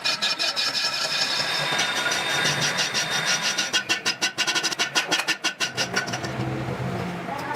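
Workshop machinery running with a steady high whine and rapid clicking or rattling. The clicking grows denser about two-thirds of the way in, and the whine fades near the end.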